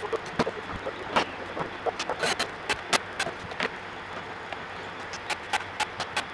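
Irregular sharp clicks and light knocks, unevenly spaced, over a steady background hiss.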